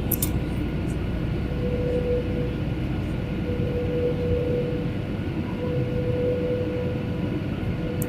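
Airliner cabin noise in flight: a steady engine and airflow drone with a hum that swells and fades about every two seconds. A couple of light clicks come at the start and near the end.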